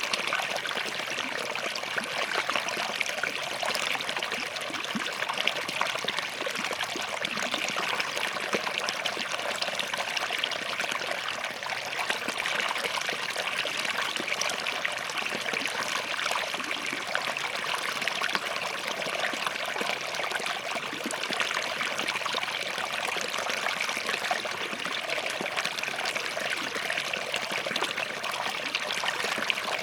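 Small forest stream running steadily over and between rocks, a constant trickling and babbling rush of water.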